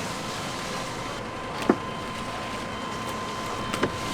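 Steady kitchen noise, a continuous hiss with a faint hum, broken by two sharp knocks about two seconds apart.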